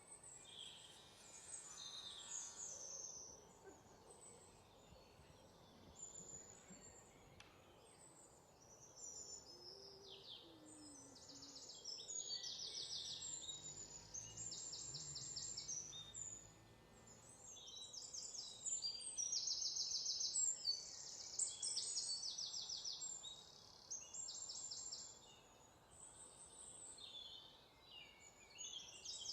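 Birds singing: repeated high-pitched fast trills, each lasting a second or two, mixed with shorter chirps that come and go throughout.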